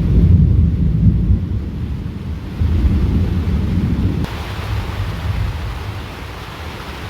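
Thunder rumbling over steady rain in a storm. About four seconds in the rumble suddenly drops away, leaving a brighter hiss of rain.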